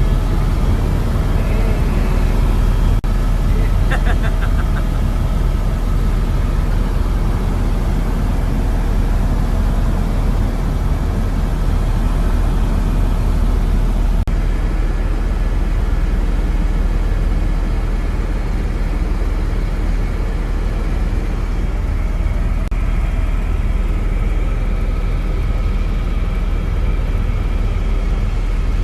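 Helicopter running in flight: a steady, loud, low rumble that never lets up.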